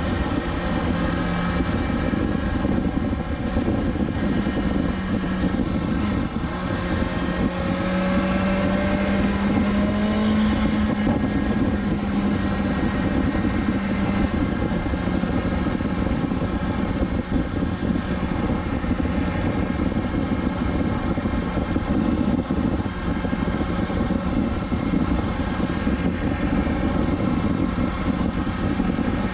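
2020 BMW S1000XR's inline-four engine running at steady cruising revs over a low rush of wind. The engine note rises a little partway through and then holds.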